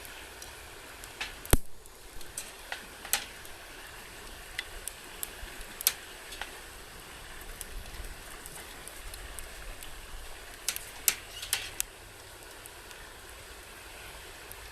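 Wood fire burning in a small fire pit, crackling with irregular sharp pops; the loudest pop comes about a second and a half in.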